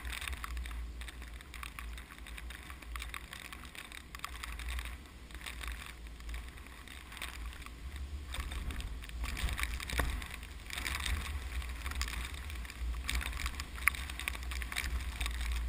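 Strong typhoon wind gusting and buffeting the microphone with a steady low rumble, over a rough hiss of rustling rice plants with scattered short crackles.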